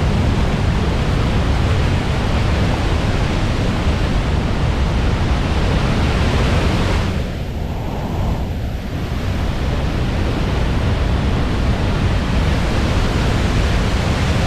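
The American Falls at Niagara: the steady, loud rush of a huge waterfall. A little past halfway it briefly goes duller and a touch quieter for about two seconds, then returns to full strength.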